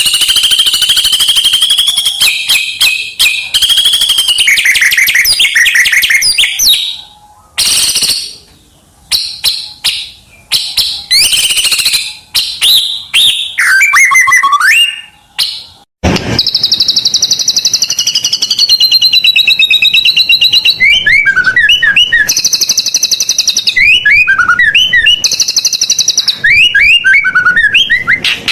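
White-rumped shama singing loudly: a varied, fast-changing song of clear whistles, rapid repeated notes, trills and quick rising and falling sweeps, packed with mimicked phrases, with short pauses between phrases. A single sharp click about halfway through.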